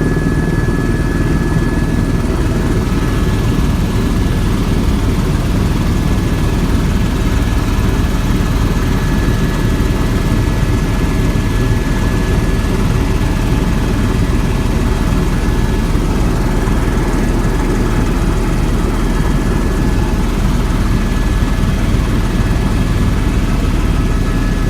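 Helicopter engine and rotor noise heard from on board, a loud steady drone in cruising flight.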